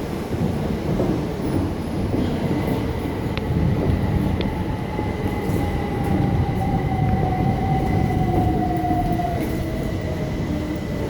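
Class 377 electric multiple unit running through the station: a heavy rail rumble with a slowly falling whine in the middle and a thin high steady tone.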